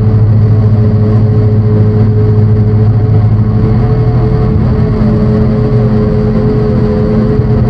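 Drone synthesizer holding a loud, steady low drone of several sustained tones, with a faint higher tone gliding down about five seconds in.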